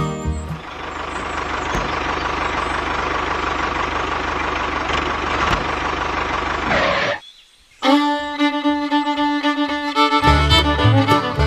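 A small machine runs with a steady, noisy whir for about seven seconds, then cuts off suddenly. After a brief silence, fiddle music with a steady beat starts.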